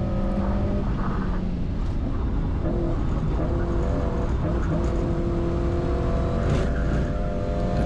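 Fiat 1500's swapped-in Fiat Cronos 1.3 four-cylinder engine running steadily under load during a fast track lap, heard from inside the cabin with road and wind noise.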